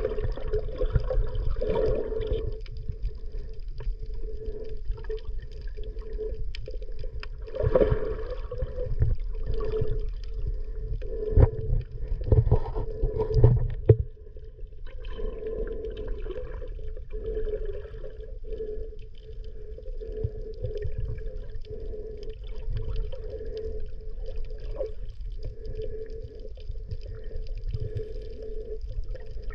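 Muffled underwater sound of water moving and gurgling, with a low rumble, heard from beneath the surface during a dive. It is louder and busier for about the first half, then settles to a softer gurgle.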